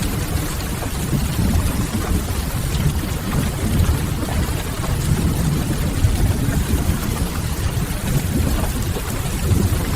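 Ambience mix of steady rain with a deep, even rumble underneath, and a few faint crackles of a wood fire scattered through.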